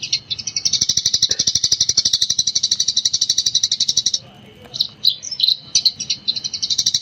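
Eurasian tree sparrow chattering in a fast, continuous run of high chirps, the rapid 'gecor' style. About four seconds in the run breaks into a few separate chirps, and the fast run starts again near the end.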